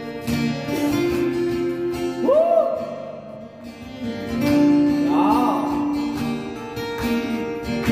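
Acoustic guitar strumming chords with a voice singing along, holding a few wavering notes.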